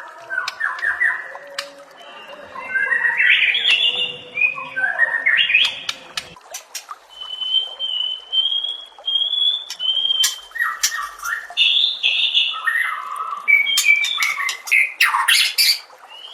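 White-rumped shama (murai batu) singing a varied song of whistled phrases mixed with sharp clicking chips and rasping notes, with a run of short repeated whistles at one pitch about halfway through.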